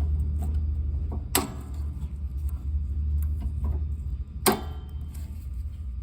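Hand tools and small metal parts clicking while a snowblower's carburetor linkage is unhooked: two sharp clicks about three seconds apart, with lighter ticks between, over a steady low rumble.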